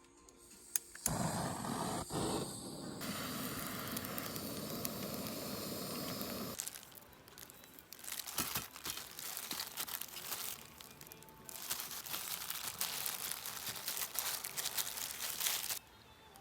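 Rustling and crinkling handling noise, with irregular crackles in the second half, cutting off suddenly near the end.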